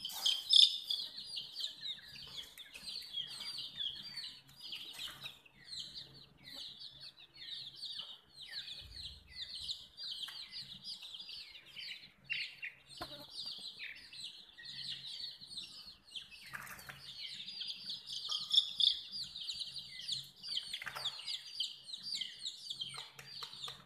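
A group of baby chicks peeping continuously, a dense run of short, high calls, many of them falling in pitch.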